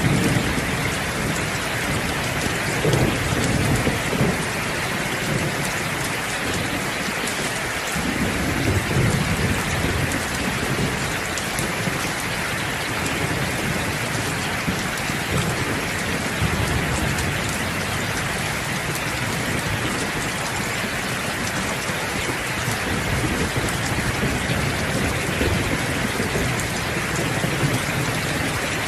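Steady, dense rainfall with low thunder rumbles that swell and fade several times.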